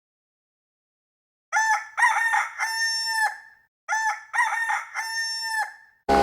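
A rooster crowing twice, starting about a second and a half in. Each crow is a few short notes followed by a long held note that cuts off sharply.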